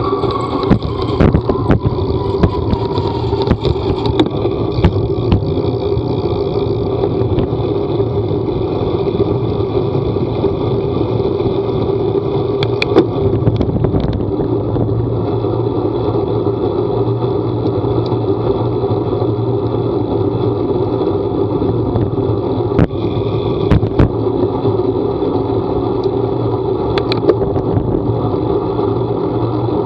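Vehicle engine running steadily under way, its pitch falling over the first couple of seconds as it slows, with scattered clicks and knocks.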